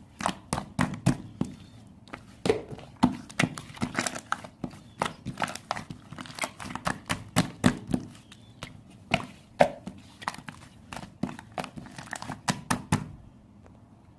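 Slime being squeezed and pressed by hand, giving a quick series of sharp clicks and pops, about three or four a second. It stops abruptly a second before the end.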